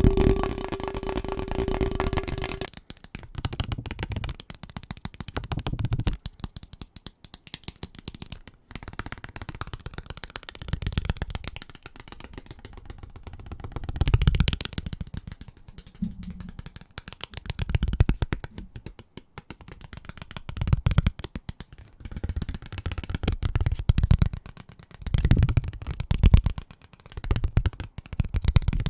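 Very fast, hard fingertip and fingernail tapping on assorted household objects, switching from item to item in quick bursts. In the first few seconds the tapped object rings with a held tone, until an abrupt switch to duller tapping.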